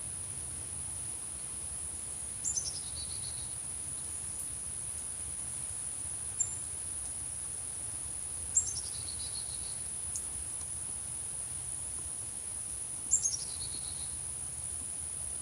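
A steady, very high insect trill, like crickets, runs throughout. A small songbird gives three short calls over it, spread about five seconds apart, each a quick run of notes falling in pitch.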